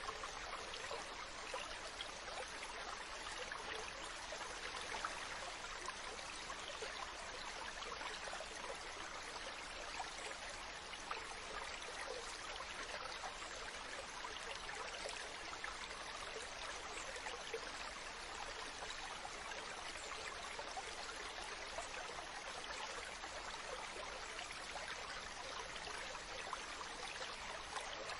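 Mountain stream running over rocks: a steady rush of flowing water with small splashes and gurgles throughout.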